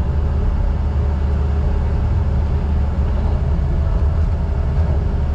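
Heavy diesel engine of logging equipment running steadily, a deep even rumble with no change in speed.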